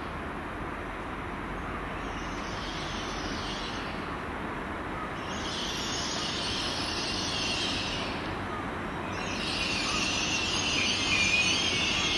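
GWR Class 800 train pulling slowly into the platform as it brakes to a stop, a low running rumble overlaid by a high squealing hiss from the wheels and brakes. The squeal comes in three waves, and the last, near the end, is the loudest.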